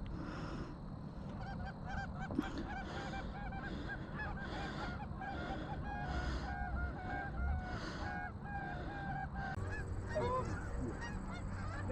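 A flock of geese honking, many short calls overlapping for several seconds and thinning out near the end, under a low steady rumble.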